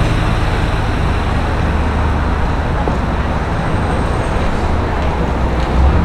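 Street traffic: motor vehicles running with a steady low engine hum over a continuous wash of road noise, swelling briefly near the end.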